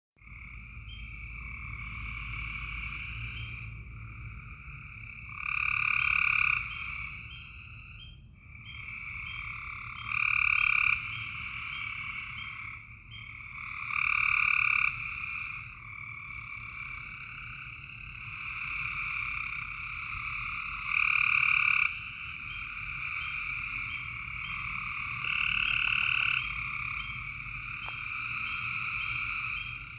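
A night chorus of frogs calling steadily, with a louder, nearer call rising out of it every few seconds.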